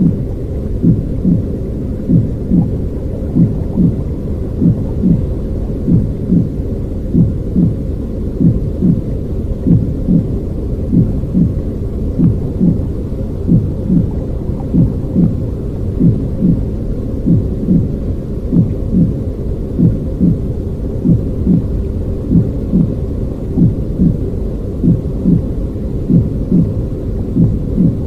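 Steady low, rumbling noise with a soft, regular heartbeat-like thump about three times every two seconds: a looped womb-style soothing sound for babies.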